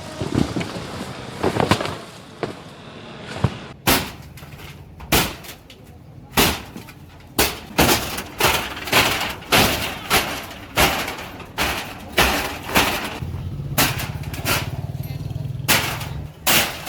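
Demolition of a roadside wall: a run of loud, sharp strikes and breaking crashes, about one to two a second, with a low rumble under them for a few seconds near the end.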